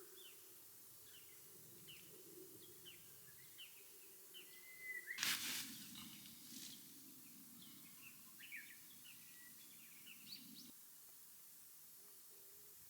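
Faint outdoor night-time ambience: many short, high chirping calls from small animals over a low background wash, with one brief burst of noise about five seconds in.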